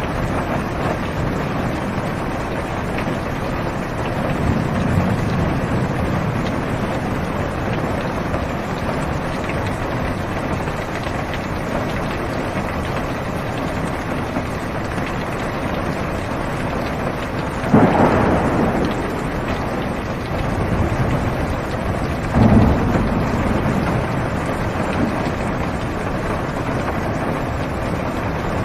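Rain falling steadily on a car's roof and windows, heard from inside the car, with thunder: a low rumble early on, a sudden sharp thunderclap about two-thirds of the way through, and a second, lower thunder rumble a few seconds after it.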